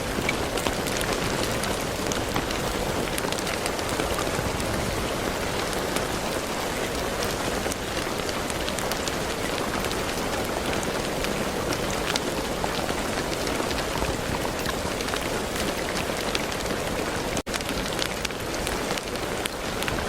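Steady rain falling on a surface: a dense, even hiss of rain with many individual drops ticking through it. The sound briefly cuts out for a moment near the end.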